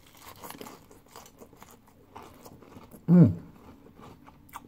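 A person chewing a mouthful of crispy fried chicken with a breaded crust, with soft crunching and mouth sounds. About three seconds in comes a loud hummed "mmm" of enjoyment.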